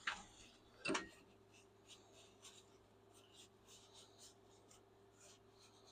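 Two sharp clicks about a second apart, then faint scratching and handling sounds over a low steady hum.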